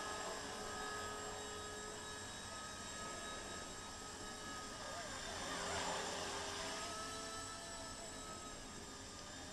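Eachine E119 micro RC helicopter in flight, its small electric motors and rotors making a faint steady whine whose pitch wavers slightly, swelling briefly a little after the middle.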